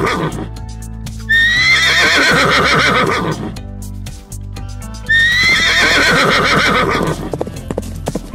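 A horse whinnying: the same two-second neigh heard twice, rising sharply and then quavering down, over background music. Near the end come the clip-clop of hooves.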